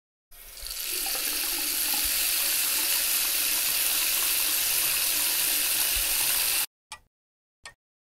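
Water running from a tap into a sink: a steady rushing hiss that builds up over the first half-second and stops abruptly near the end. Then come two short ticks, about three-quarters of a second apart.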